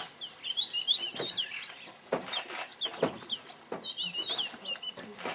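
Birds chirping, many short high chirps in quick succession, with a few sharp knocks in between.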